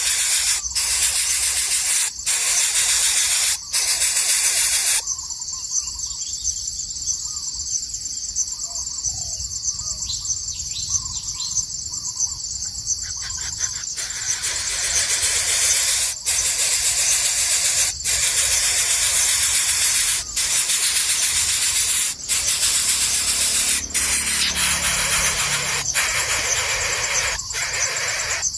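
A loud, steady hiss that breaks off briefly every second or two. In the middle it gives way to a steady high insect drone, with a few short bird chirps about ten seconds in.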